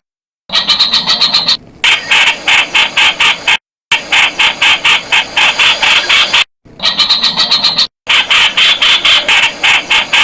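Streak-eared bulbul calling: a fast, steady run of sharp repeated notes, about six a second, broken by a few short gaps of dead silence.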